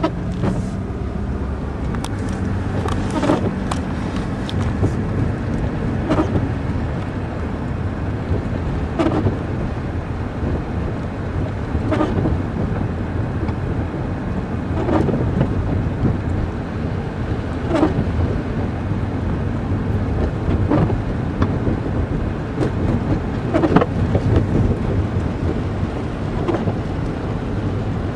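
Car driving along a road, heard from inside: a steady low rumble of engine and tyres, with a short sharp sound repeating about every three seconds.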